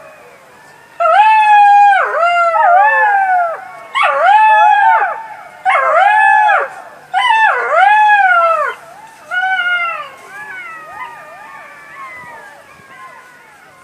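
Jackals howling in chorus: several voices overlap in rising and falling wailing calls, each about a second long, starting about a second in. The calls fade to quieter, thinner overlapping cries over the last few seconds.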